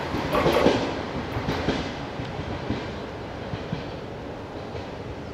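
Passenger train's wheels running on the rails as the train moves away: loud for about the first second, then fading over the next second into a faint, steady noise.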